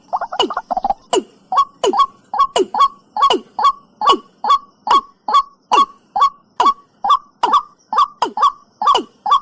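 Watercock (cúm núm) calling: a long, regular run of loud hollow notes, each falling sharply in pitch, about two and a half a second, opening with a quick run of shorter notes in the first second.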